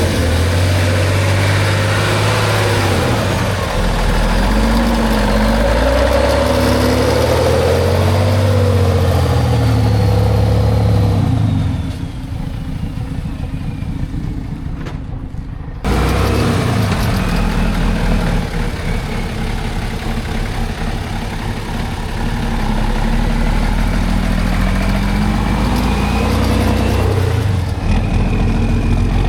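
Heavy off-road trial truck's engine revving and labouring, its pitch rising and falling as the throttle is worked. The sound drops back about twelve seconds in and returns abruptly about four seconds later.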